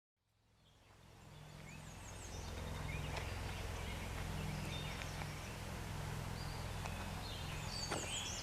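Outdoor ambience fading in: small birds chirping and calling in short, high notes over a steady low rumble.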